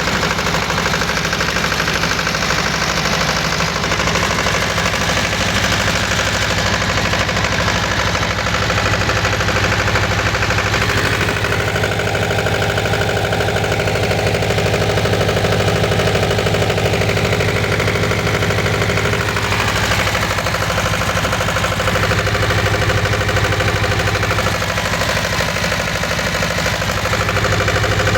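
Escorts diesel engine driving a Stamford 7.5 kVA single-phase alternator, running steadily at constant speed with a fast, even beat.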